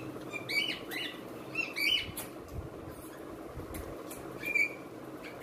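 Small birds chirping: a few short, high, rising chirps, several close together in the first two seconds and one more near the end, with faint clicks in between.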